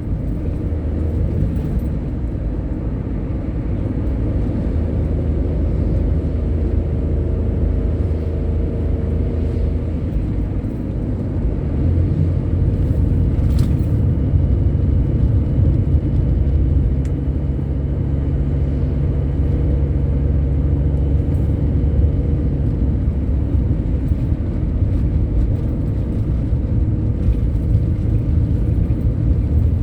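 A heavy vehicle's engine running on the road: a steady low rumble with road noise, its engine note stepping up about twelve seconds in as it pulls harder.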